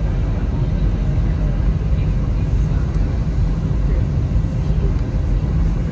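Steady low rumble and rushing noise inside the cabin of an Airbus A320: its engines and running gear, or airflow, heard from a seat near the front.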